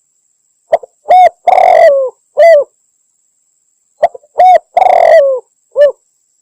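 Spotted dove (tekukur) call used as a hunting lure, given as a female's call to draw in males. It comes twice, about three seconds apart, and each phrase is a few short coos with a longer, rougher coo that falls in pitch at its end.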